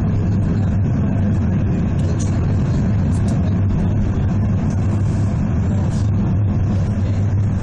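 Steady low rumble and hum of the Cairngorm Mountain Railway funicular car running on its track.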